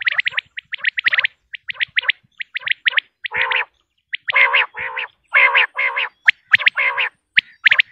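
Female common quail calling: runs of rapid, short, high chirping notes, joined from about three seconds in by a series of harsher, lower, drawn-out notes about a third of a second each.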